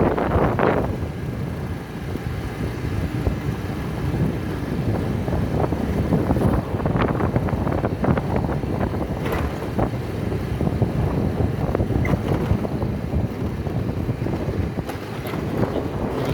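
Wind buffeting the microphone: a steady, uneven low rumble with a few faint clicks.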